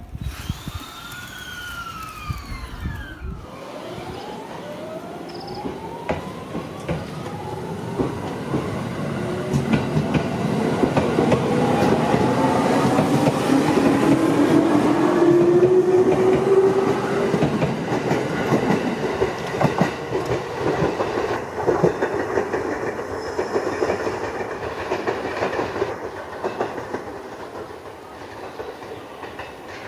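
Electric train pulling out of the station: its traction motors whine, rising steadily in pitch as it gathers speed, and the wheels clack over rail joints. It gets louder as it passes, loudest about halfway through, then fades.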